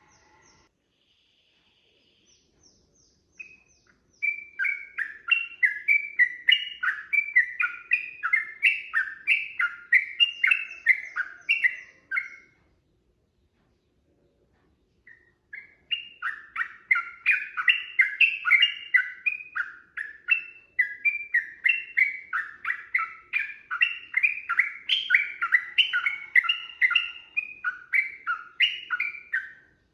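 Sooty-headed bulbul (trucukan) singing a long run of rapid repeated notes, about two a second. The song breaks off around twelve seconds in and resumes about three seconds later for a second long run.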